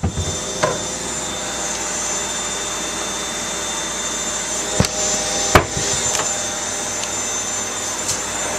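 Zanussi front-loading washing machine running steadily on its spin, drum and motor humming with a high steady whine. A few sharp knocks come through it, the loudest two close together about five seconds in.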